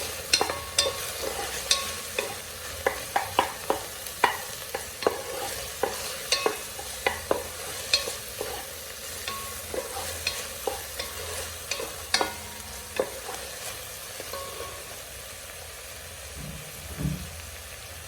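Diced beef with garlic, ginger and onion sizzling in hot oil in a saucepan, with a utensil repeatedly knocking and scraping against the pan as it is stirred. The knocks thin out after about two-thirds of the way through, leaving the sizzle.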